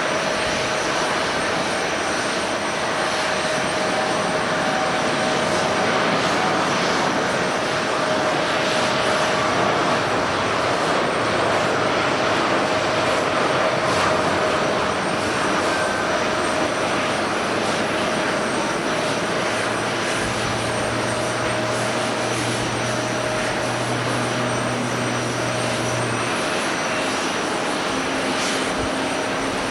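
Jet airliner engines heard from the ground: a steady broad rush with a steady whine running through it, swelling a little midway and then easing.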